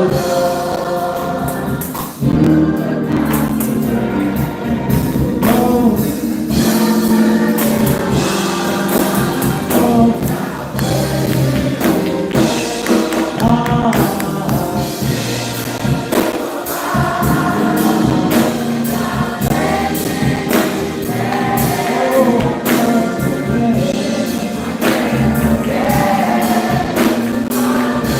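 Live gospel music: a choir and congregation singing over a band, with tambourine and percussion keeping a steady beat.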